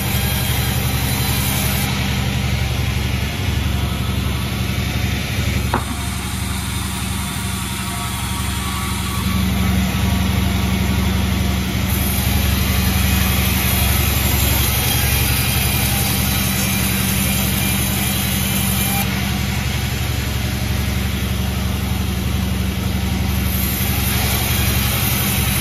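Sawmill machinery running with a steady engine-like drone, dipping a little quieter for a few seconds about six seconds in.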